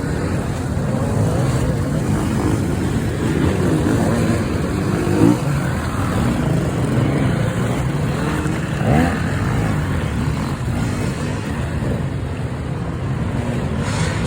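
Enduro motorcycle engines running off-road, the pitch rising and falling as the throttle opens and closes, with brief louder moments about five and nine seconds in.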